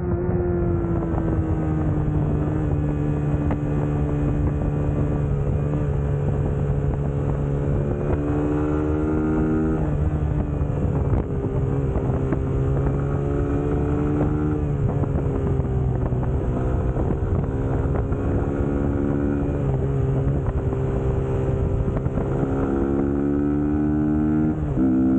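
Suzuki GSX-S150's single-cylinder four-stroke engine running under way, its pitch rising and falling with the throttle, with abrupt drops in revs about ten seconds in and near the end.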